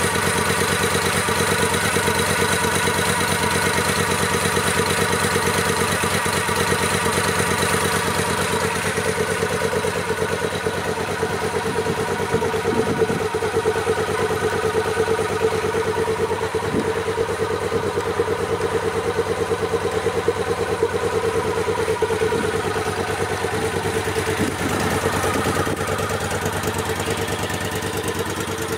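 Moto Guzzi V7 Classic's air-cooled transverse V-twin engine idling steadily through its exhaust.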